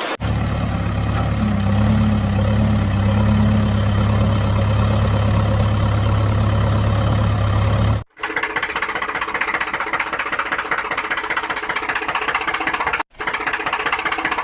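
Engine running: a steady low hum for about eight seconds, then an abrupt cut to a different engine with a rapid, even pulsing beat, broken by a brief gap near the end.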